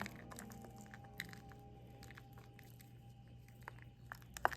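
Potting soil being sprinkled and crumbled by hand over a seed tray, a faint crunching and crackling, with one sharper click near the end.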